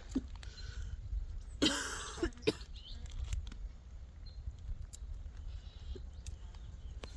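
A person coughing: one harsh cough about a second and a half in, over a steady low rumble.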